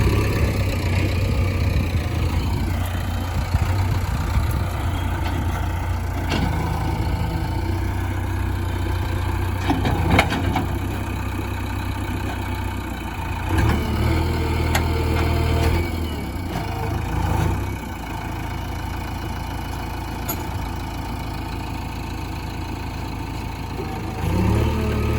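JCB 3DX backhoe loader's diesel engine running steadily, with the engine note swelling under load about halfway through and again near the end.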